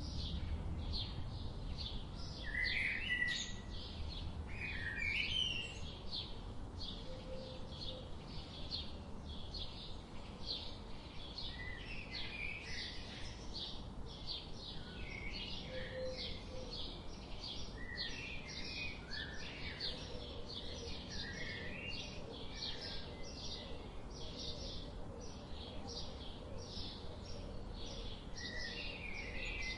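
Birds chirping: a steady series of short, high chirps, about two a second, with occasional lower warbled notes mixed in.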